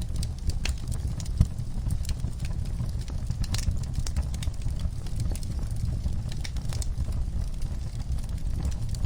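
Wood fire crackling in a fireplace: irregular sharp pops and snaps over a steady low rumble of burning, with one louder pop about a second and a half in.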